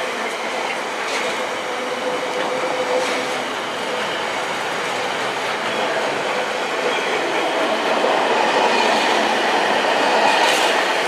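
Loaded container wagons of an intermodal freight train rolling past on the track: a steady rumble of wheels on rail with a few clicks over the rail joints, a little louder near the end.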